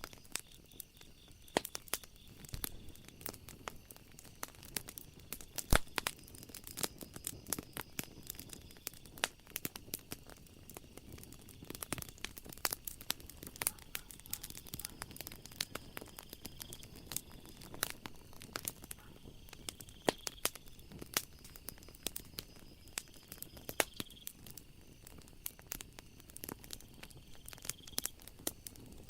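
Wood fire crackling, with irregular sharp pops and snaps of varying loudness over a soft hiss. A faint steady high trill of night insects sits behind it.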